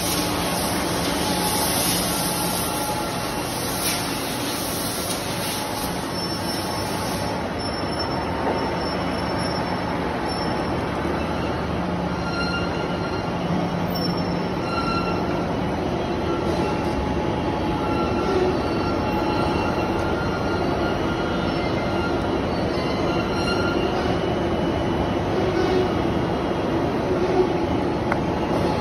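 Briquette press running continuously, a steady mechanical noise with short high-pitched squeaks coming and going over it.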